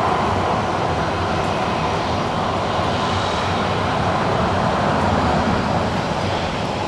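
Jet engines of a Spirit Airlines airliner running steadily: a continuous rumble and rush with a faint whine over it.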